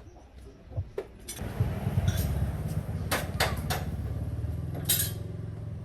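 Engine starting a little over a second in, then running with a fast, even low beat. Several sharp metallic clicks sound over it, three in quick succession around the middle and one louder near the end.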